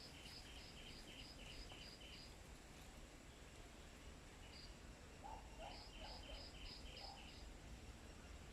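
A small bird chirping faintly: two quick runs of short, high, evenly repeated chirps, about four a second, the second run coming after a brief pause, over a steady low background rumble.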